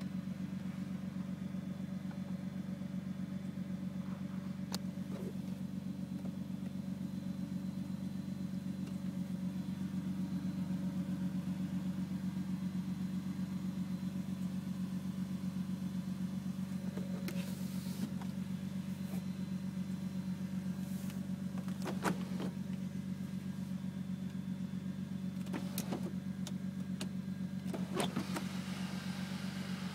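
Mercedes-Benz W210 E320 engine idling steadily through an aftermarket performance exhaust with the resonator deleted, heard from inside the cabin as a low, even hum. A few faint clicks and taps come through now and then.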